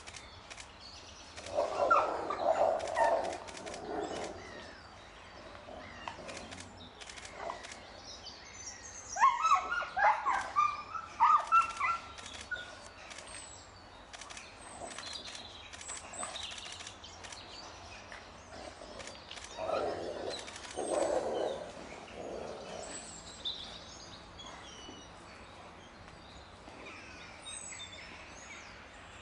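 Captive wolves snarling and yelping in three short bouts, the middle one a run of sharp high cries, with small birds chirping in the background.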